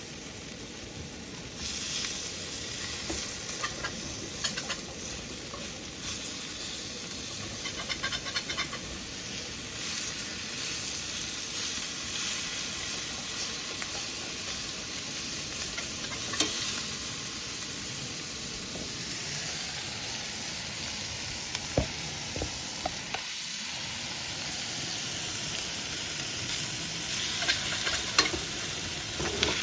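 Steady sizzling hiss, with scattered small clicks and a few sharp knocks.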